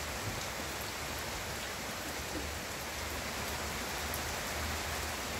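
Steady rain falling: an even hiss with a few single drops ticking through it.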